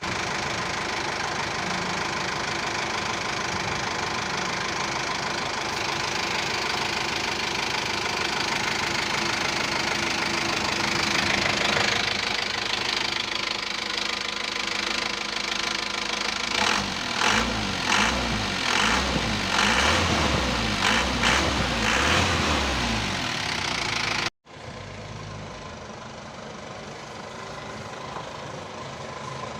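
Isuzu ELF NHR55 diesel engine running, revved in a series of short surges about two-thirds of the way through, then cutting suddenly to quieter, steady running.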